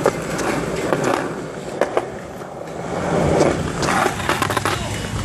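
Skateboard rolling over pavement, its wheels making a rising and falling rumble, with several sharp clacks of the board along the way as tricks are tried.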